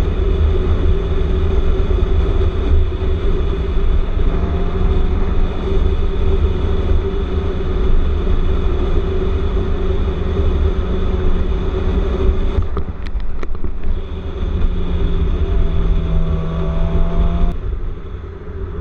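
A motorcycle's engine running while it rides in traffic, under heavy wind rumble on the camera microphone. A few sharp clicks come about two-thirds of the way in, and a tone rises and falls near the end.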